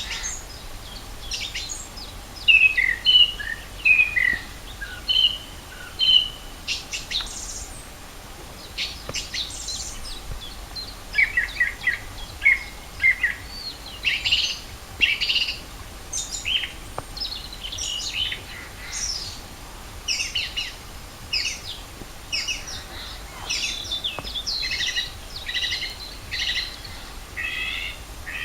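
Wild songbirds singing and calling. Many short chirps and trills of differing shapes come one after another and overlap, a chorus of several birds.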